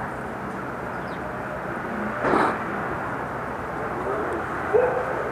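Steady outdoor background hum, with one brief louder noise a little over two seconds in and a short faint sound near the end.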